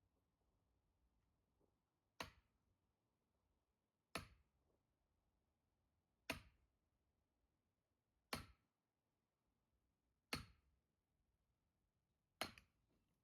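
Six sharp blows at firewood being split, evenly paced about two seconds apart, each a short crack that dies away quickly.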